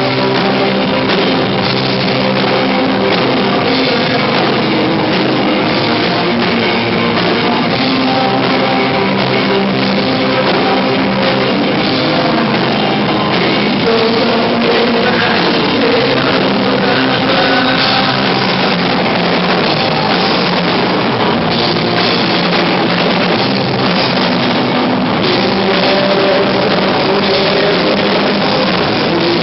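Rock band playing live: guitars and drum kit, loud and continuous, with a singing voice over them.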